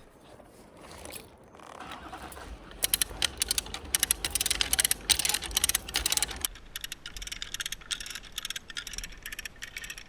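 Rapid metallic clicking and rattling of lineman's tools or hardware, densest from about three to six and a half seconds in, then sparser.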